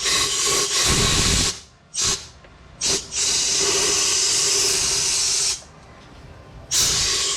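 Compressed-air blow gun hissing in bursts, blowing sanding grit off a freshly polished crankshaft journal: a blast of about a second and a half, two short puffs, a long blast of about two and a half seconds, and a last short burst near the end.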